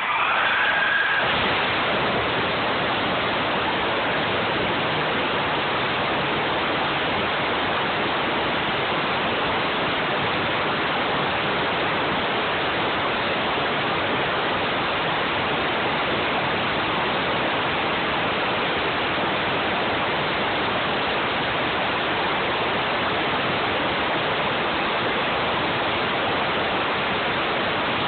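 An engine under test, cutting in suddenly and then running at a loud, steady, even rushing noise with no clear pitch, a brief higher whistle riding on it for the first second or so.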